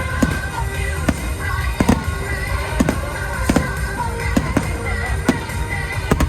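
Fireworks going off in frequent, irregular sharp bangs, over loud music.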